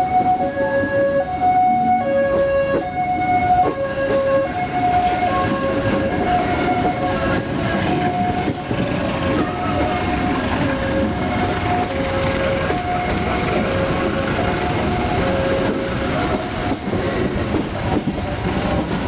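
Passenger train running, heard from inside the carriage as a steady rumble. Over it, a two-tone warning signal alternates high and low about once every second and a half, fading away toward the end.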